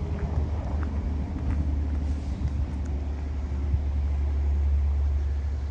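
Isuzu Forward truck's diesel engine idling, a steady low rumble.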